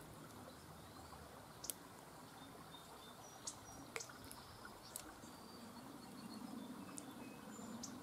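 Faint outdoor background with a few short, high bird chirps and several soft clicks scattered through it.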